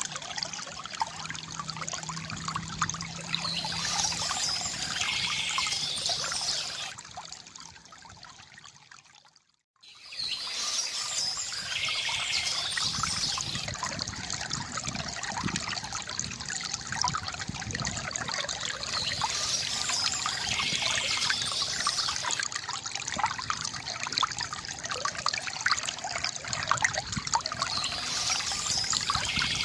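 Water trickling and pouring from a bamboo fountain spout into a basin. The sound fades out to a brief silence about nine seconds in, then comes straight back.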